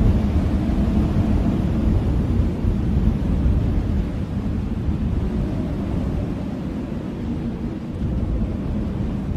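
Blizzard wind blowing: a steady, deep rumbling rush of noise that eases a little over the few seconds.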